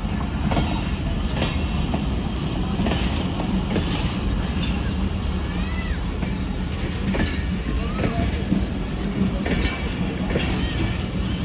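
Passenger train rolling past on the track: a steady rumble with repeated wheel clicks over the rail joints and a few short wheel squeals.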